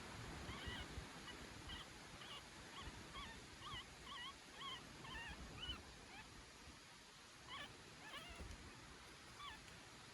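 Newborn puppy squeaking: a run of short, high-pitched cries, about two a second for some five seconds, then a few more near the end. Faint.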